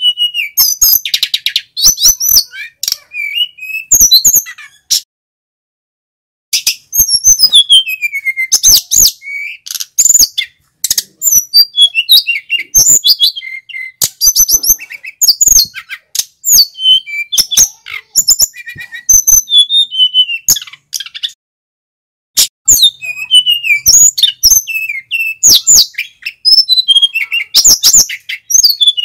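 Male sikatan gunung flycatcher singing loudly in quick, varied phrases of whistled notes and trills, stopping briefly twice, about five seconds in and again near twenty-one seconds.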